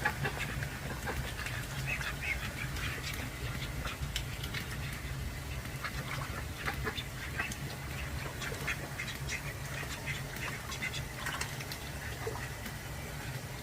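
Call ducks quacking in many short, rapid calls mixed with small clicks, over a steady low hum.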